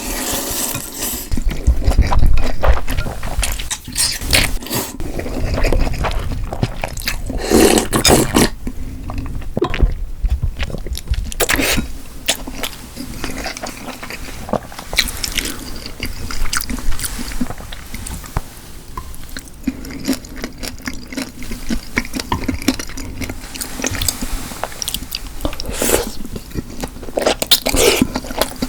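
Close-miked mouth eating sounds: wet chewing and smacking with many irregular small clicks and a few louder bursts.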